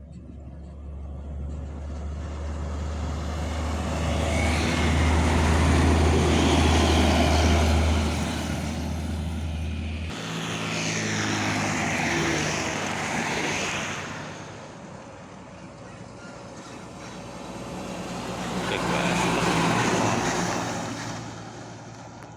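Trucks driving past at speed, one after another: the sound swells and fades three times. A steady low engine hum stops abruptly about ten seconds in.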